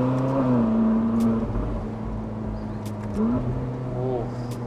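Ferrari 458 Spider's naturally aspirated V8 running on the road; its pitch rises slightly, drops about half a second in, then holds steady at a light cruise.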